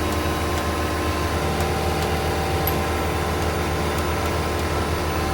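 Venieri 10.33C backhoe loader's four-cylinder Deutz diesel engine running steadily at high revs with the snowblower attachment engaged: a continuous even drone with several steady held tones.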